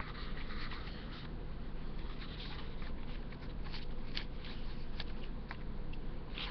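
Paper rustling with scattered soft ticks as the glossy pages of a hardcover Blu-ray digibook are handled and turned, the rustle strongest in the first second.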